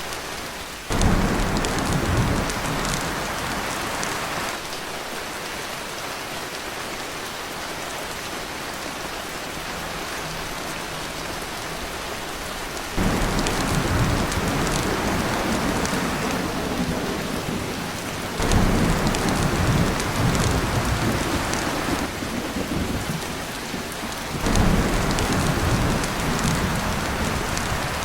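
Heavy rain pouring on a tin roof as a steady hiss, with four rolls of thunder that each come in suddenly and rumble low for several seconds: about a second in, near the middle, and twice in the last third.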